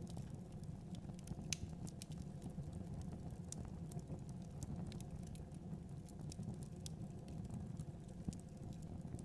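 Fireplace fire burning: a steady low rumble of flames with frequent, irregular crackles and pops.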